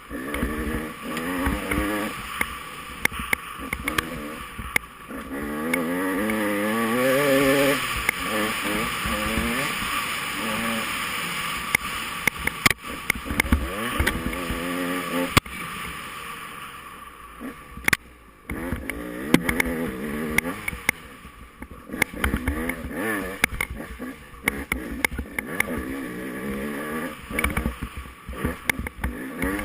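Off-road dirt bike engine revving up and down as it is ridden, with frequent short knocks and rattles over rough ground. The engine eases off about 18 seconds in, then picks up again.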